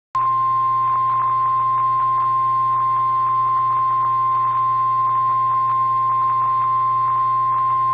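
NOAA Weather Radio warning alarm tone: one steady, loud single tone at about 1050 Hz held for about eight seconds, heard through a radio receiver with a low hum and light crackle underneath. The tone is the signal that an emergency warning, here a severe thunderstorm warning, is about to be read.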